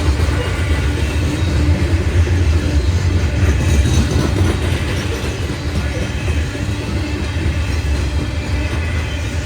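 A train rolling past: a steady rumble of wheels on the rails with a strong low drone.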